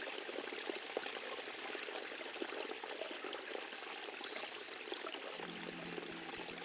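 Forest stream water running and trickling steadily. About five seconds in, low steady tones come in under it: the start of music.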